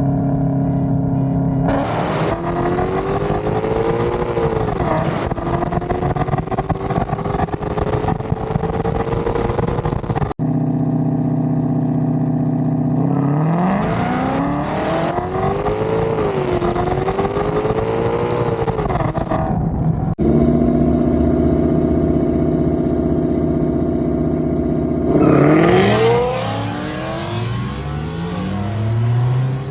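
Car engine accelerating hard in three separate takes. Each starts from a steady idle, then rises in pitch, drops briefly at a gear change and climbs again.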